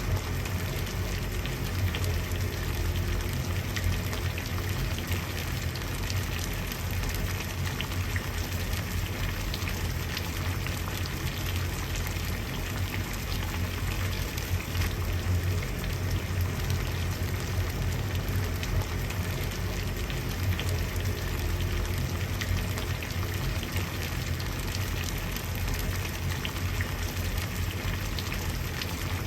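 Water at a steady boil: continuous dense bubbling and popping, with a low rumble underneath.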